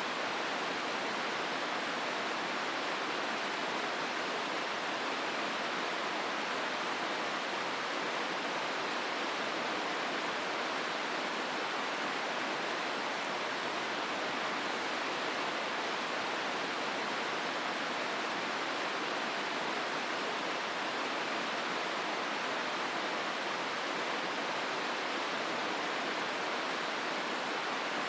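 Steady rush of the Hozu River's water running through its rocky gorge, an even noise with no change.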